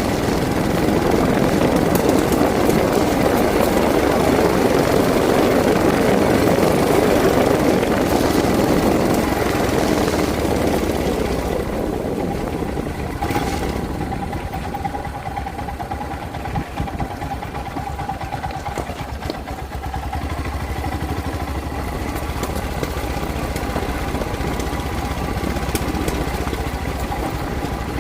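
Engine running steadily under a loud rushing noise. The rushing fades about twelve seconds in, leaving the engine's steady hum.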